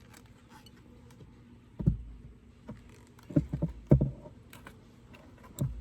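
Wooden frames of a horizontal beehive knocking against each other and the hive body as they are lifted and pushed together: half a dozen dull knocks starting about two seconds in, with faint clicks over a low steady hum.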